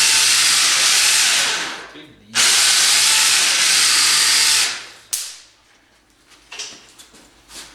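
Electric winch motor running in two long runs with a short pause between, followed by a sharp click.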